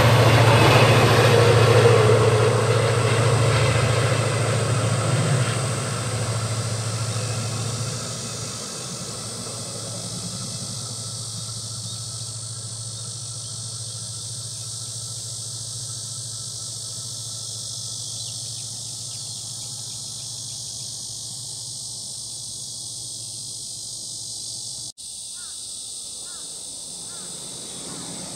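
A passenger train running along the track, its low rumble fading away over the first eight seconds or so. Steady insect chirring is left behind, with a brief dropout near the end.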